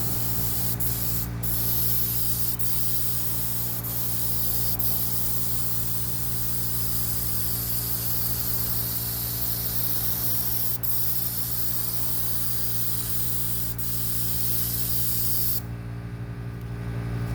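Paint spray gun hissing steadily as paint goes onto the jon boat, over a steady motor hum; the spray cuts off suddenly near the end.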